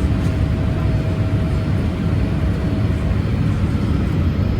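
Steady cabin noise of a Boeing 787-8 Dreamliner in flight: an even, deep roar of engines and airflow heard inside the cabin, with a faint steady hum-tone over it.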